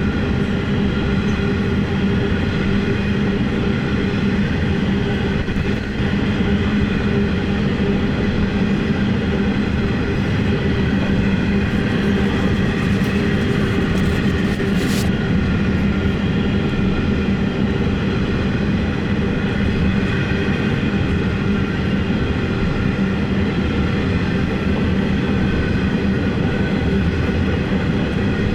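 Empty Aurizon coal train rolling past at low speed, a steady drone with several held tones running through it. There is one short sharp click about 15 seconds in.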